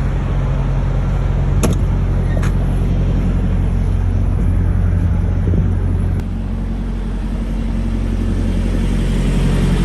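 Semi-truck engine running on the road, heard as a steady low drone, with two short clicks early on. About six seconds in, the drone drops in level and changes pitch, like a gear change or easing off the throttle.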